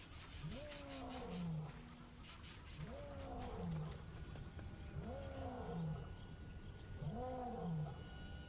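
Male lion roaring, a run of deep grunting calls about two seconds apart, each rising and then falling in pitch: a pride male's territorial roar announcing ownership.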